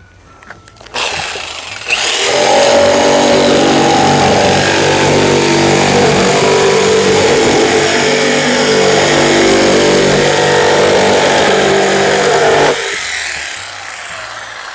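DeWalt DW331K corded top-handle jigsaw cutting a curving, zigzag line through thin 1/4-inch plywood. The motor starts about a second in, and the loud, steady cutting noise runs for about eleven seconds before dropping off sharply near the end.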